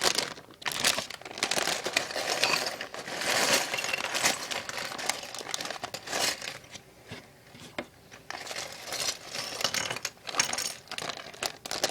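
Plastic polybag crinkling as it is opened and emptied, with small Lego bricks clicking and clattering as they spill out onto a surface, quieter for a couple of seconds in the middle.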